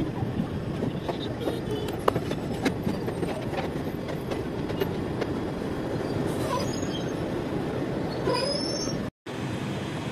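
Passenger train running, heard from an open coach doorway: a steady rumble with sharp clicks from the wheels over rail joints, and brief high squeals from the wheels between about six and eight and a half seconds in. The sound cuts out for an instant near the end.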